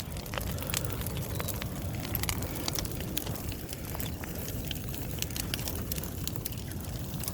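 Large bonfire of dry wood burning, with frequent sharp crackles and pops over a steady low rumble.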